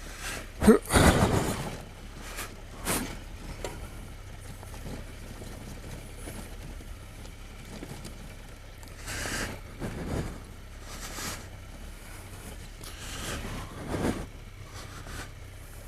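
Motorcycle engine running slowly under a steady low hum of wind noise on the helmet microphone as it picks its way down a rocky slope, with several louder gusts of noise.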